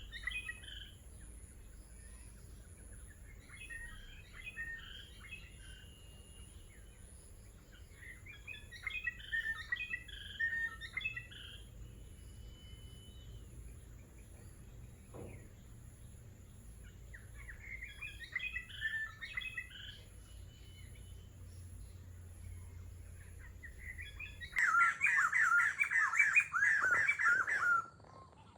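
Small songbird singing in short twittering phrases every few seconds. Near the end a sudden, much louder stretch of rapid chirping lasts about three seconds.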